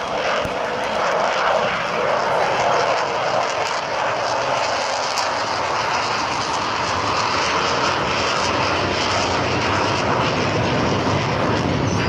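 Avro Vulcan bomber's four Rolls-Royce Olympus jet engines heard in flight: a steady jet noise that takes on a deeper, heavier rumble in the second half.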